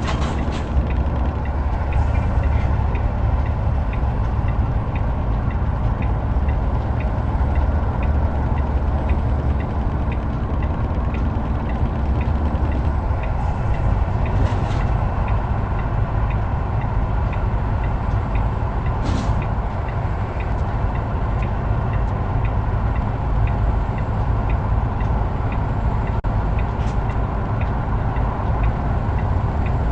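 Heavy truck under way, its engine and road noise a steady low rumble, with a light regular ticking and a few short hisses.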